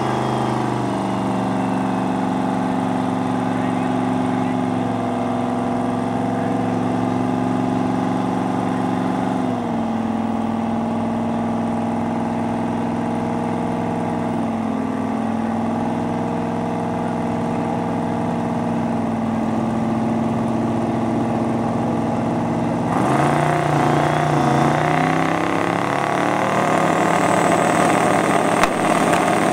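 Twin-turbo Pontiac Trans Am drag car and a second drag car idling at the starting line, a steady engine drone whose pitch steps down once about ten seconds in. About 23 seconds in the engines get louder and rougher as the revs are brought up for the launch.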